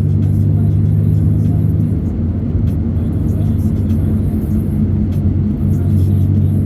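Steady drone of a moving road vehicle's engine and road noise, with faint music under it.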